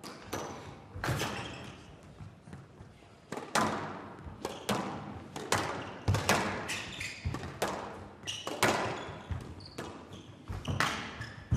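Squash rally: the ball cracking off rackets and the walls of the court, about one or two hits a second, each echoing in the hall.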